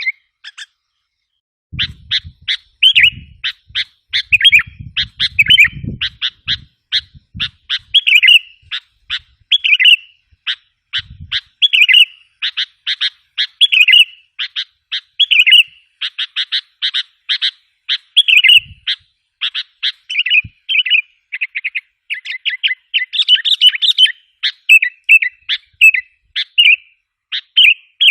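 Sooty-headed bulbul (kutilang) calling: quick runs of sharp chirps broken by short slurred, bubbling phrases, repeated almost without pause after a brief break about a second in. This is a lure call used to draw wild bulbuls in.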